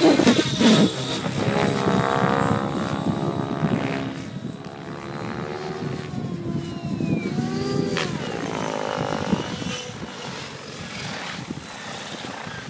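Align T-Rex 700E DFC electric RC helicopter in flight, its 800MX brushless motor and rotor blades whining. The pitch bends up and down several times as it manoeuvres, and the sound gets quieter in the second half.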